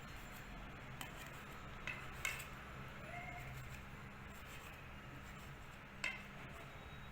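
A few faint, sharp clicks of a kitchen knife tapping on the cutting surface as bread is cut into squares, over a low steady hum. There are four taps, about a second in, twice close together near two seconds, and once more near six seconds.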